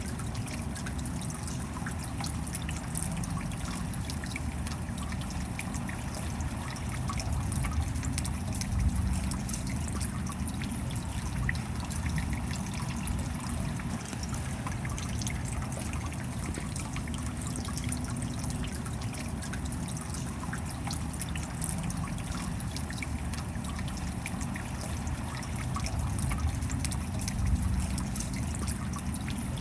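Steady rainfall with water trickling and dripping, a dense patter of fine drops over a low rumble, swelling slightly twice.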